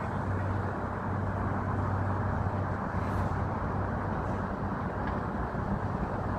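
Boeing 777-300ER's twin GE90-115B turbofan jet engines heard from the ground as the airliner flies over: a steady, even roar with a low hum underneath.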